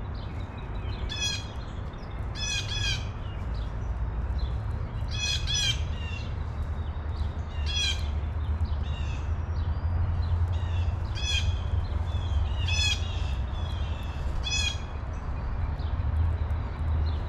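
A bird calling repeatedly with short calls, some single and some in quick pairs, every one to three seconds, over a steady low rumble.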